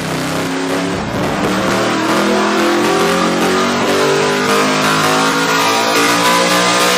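Yamaha R1M's crossplane inline-four with a full titanium aftermarket exhaust pulling hard and loud through the rev range under load, its pitch rising steadily throughout, as in a dyno run.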